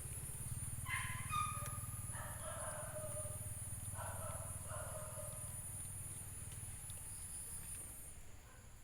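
A few short pitched animal calls, about a second, two and four seconds in, over a steady low hum.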